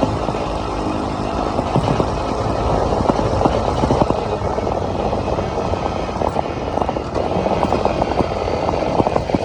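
ATV running along a rough trail: a steady engine and wind rumble with frequent small knocks and rattles throughout.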